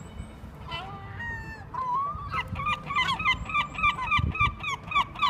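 Seagulls calling: a few scattered calls, then from about two seconds in a fast run of short, repeated calls, several a second.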